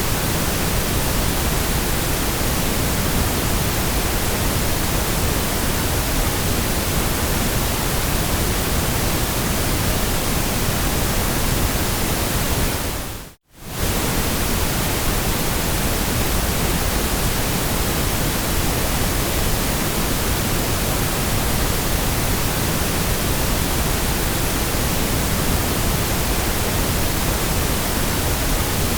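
Steady electronic white noise, an even hiss across the whole range of pitch. About halfway through it fades out to near silence for a moment and comes straight back.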